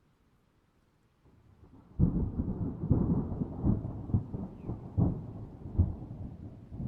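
A peal of thunder: a faint rumble builds about a second in, then a loud clap about two seconds in rolls on as a deep rumble with several louder surges.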